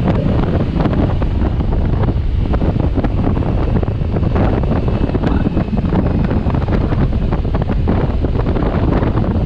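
Heavy wind buffeting a microphone on a moving motorcycle, a loud steady rush with constant flutter that covers any engine sound.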